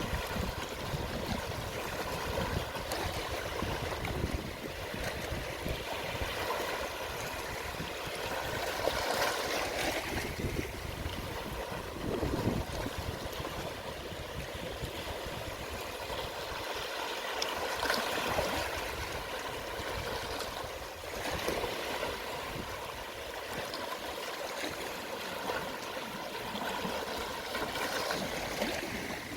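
Gentle sea waves washing over the shore at low tide: a steady hiss of water that swells as a wave comes in, about every nine seconds.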